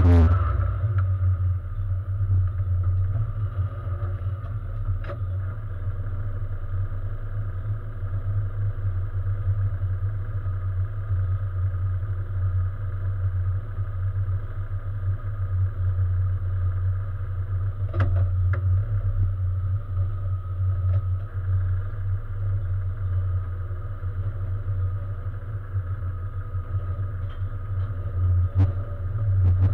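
Race car engine idling steadily, heard from inside the stripped cabin. A few sharp clicks sound over it: one about five seconds in, a louder one midway, and another near the end.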